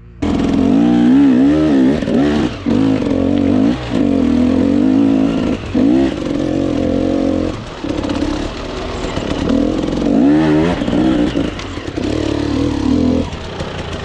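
Dirt bike engine revving hard in repeated surges, its pitch rising and falling as the throttle is worked. It settles to a lower, steadier running near the end.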